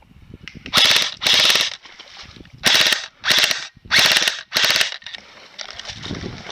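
Airsoft gun firing six short full-auto bursts, each a rapid rattle under half a second long, coming roughly in pairs.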